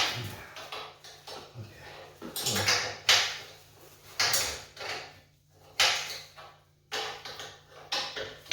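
Irregular metal clanks and rattles, about eight in all, from wrenches and bolts as the generator's wheel axles are tightened onto the frame.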